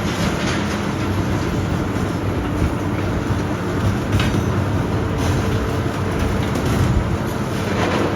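Heavy demolition machinery running steadily, with a few sharp knocks and crunches about a second, four seconds and eight seconds in.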